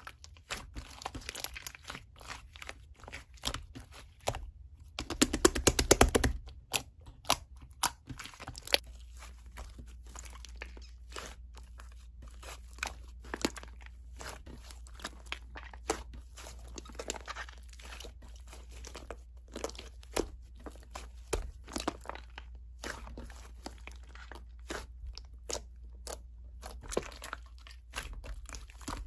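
Slime being squeezed, pressed and stretched by hand, giving a dense run of crackling clicks and pops, loudest and densest about five to six seconds in.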